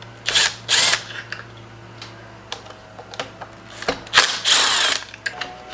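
Short bursts of mechanical ratcheting and clicking from hand tools at work, with scattered clicks in between and a longer, louder burst about four seconds in.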